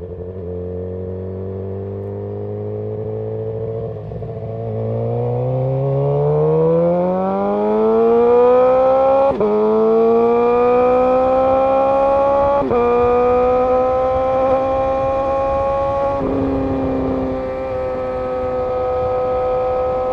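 Suzuki GSX-R750's inline-four engine running steadily, then accelerating up through the gears. The pitch climbs and drops sharply at two upshifts, about nine and thirteen seconds in, then falls again near sixteen seconds and settles to a steady cruise.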